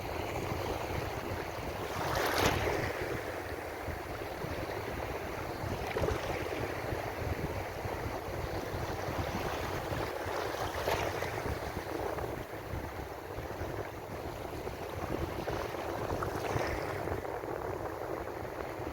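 Ocean surf washing in continuously, with louder waves breaking about two seconds in, around eleven seconds and again near sixteen seconds.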